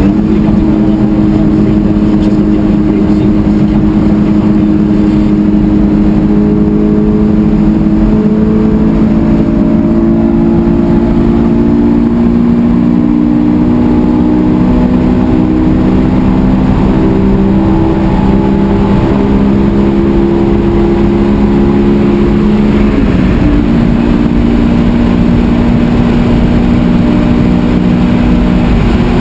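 Honda S2000's four-cylinder engine and exhaust running loud in a tunnel, its pitch climbing slowly for most of the time, then dropping abruptly about 23 seconds in and holding steady after. Road and wind noise run underneath.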